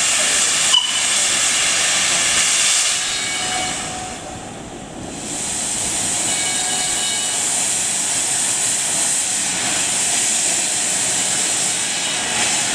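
Steam locomotive hissing steadily as it blows off steam, easing off for a moment around the middle and then resuming.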